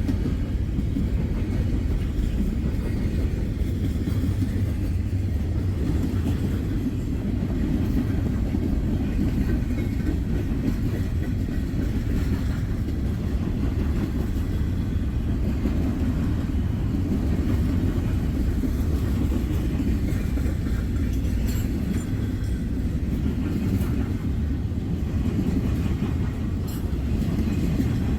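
Freight train cars rolling past on the rails with a steady low rumble.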